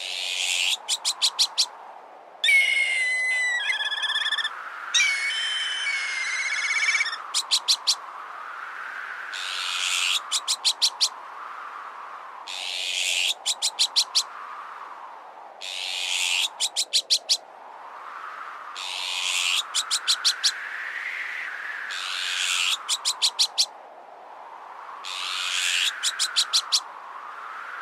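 Azure-winged magpie alarm calls, each a harsh rasp followed by about five quick chattering notes, repeating roughly every three seconds over howling wind that rises and falls in pitch. A few seconds in, a black kite's wavering whistled call sounds twice.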